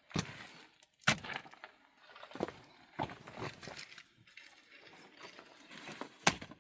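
A few sharp cracks and knocks, the loudest near the end, with rustling and scraping between them.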